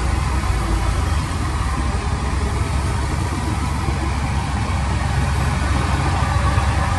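Heavy machine's diesel engine running steadily at a low, even pitch, with no revving.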